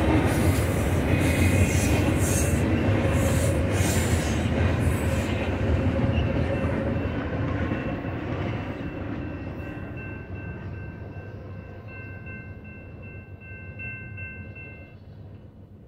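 Double-stack container freight train's cars rolling past, a low rumble with wheel clatter, fading steadily over the second half as the tail end draws away. Near the end a thin high wheel squeal carries on faintly above the dying rumble.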